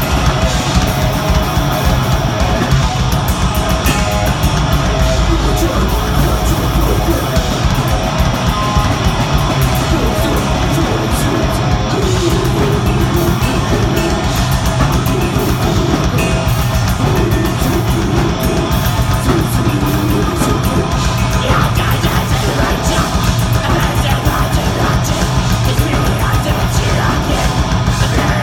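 Live deathgrind band playing at full volume: heavily distorted guitars and bass over very fast drumming, with screamed vocals.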